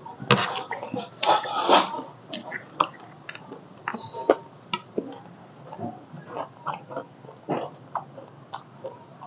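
Close-miked eating of chatpate, a crunchy puffed-rice and dry-noodle snack: irregular crunching and mouth noises, with a metal spoon scraping and clicking on the plate as it scoops. The loudest crunches come in the first two seconds.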